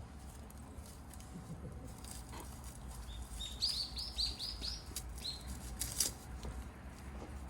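A bird calling: a quick series of about seven short, high, sharply rising and falling notes over roughly two seconds, starting about three seconds in. A single sharp click follows about six seconds in.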